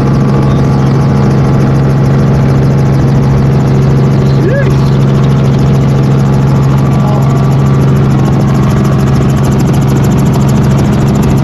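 Helicopter running steadily in flight, a loud constant drone of engine and rotor with a strong low hum.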